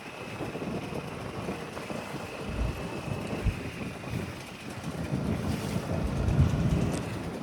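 A boat's engine running steadily under way, with wind buffeting the microphone in low gusts through the middle and latter part.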